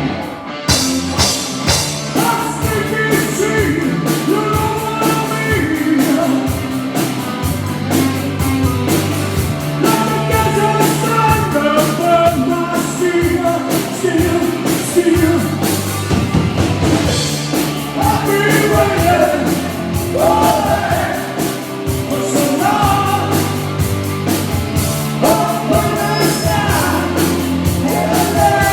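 Live rock band playing loudly, with a male lead vocal singing over a steady drum-kit beat, bass and electric guitar.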